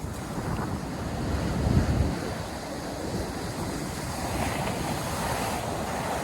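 North Sea surf washing onto a sandy beach, with wind buffeting the microphone. A low gust of wind noise swells about a second and a half in, and a breaking wave hisses up the beach about four seconds in.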